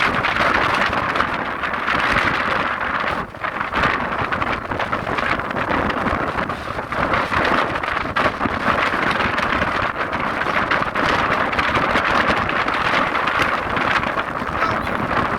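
Strong gusting wind of about 11 m/s blowing hard across the microphone: a loud, continuous rushing noise that surges and eases, with a brief lull about three seconds in.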